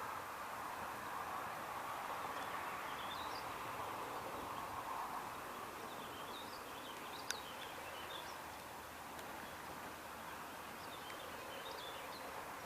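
Outdoor ambience: birds chirping in short bursts three times, over a steady faint hum, with a single sharp click about seven seconds in.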